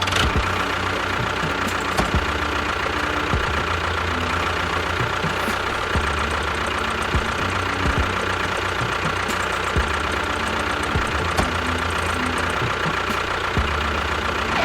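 An engine running steadily with a fast, even knocking beat and a steady high whine.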